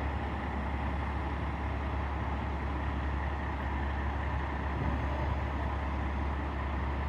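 A large truck's engine running steadily, a constant low drone.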